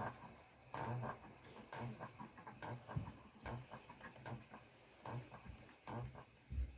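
Spinning wheel running while yarn is spun, with a regular creaking pulse about once every 0.8 s as the wheel turns.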